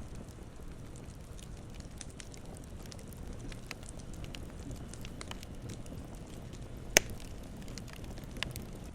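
Campfire crackling: a steady low rumble of burning wood with scattered small crackles, and one loud sharp pop about seven seconds in, followed by a smaller pop shortly after.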